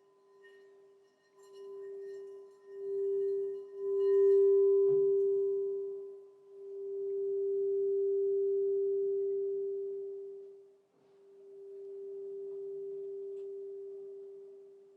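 Crystal singing bowl sounding one sustained pure tone that swells and fades in slow waves, several times over. Its higher overtones ring in the first few seconds and drop away after a soft knock about five seconds in.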